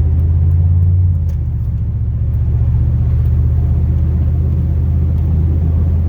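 A 2002 Chevrolet Silverado's 8.1-litre big-block V8 running steadily while driving, heard as a low drone inside the cab. The drone eases slightly about a second in.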